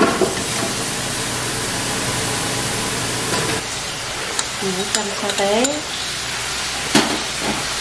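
Oxtail pieces sizzling in a hot stockpot, a steady hiss that eases a little about halfway through, with a couple of spoon clinks and a brief voice.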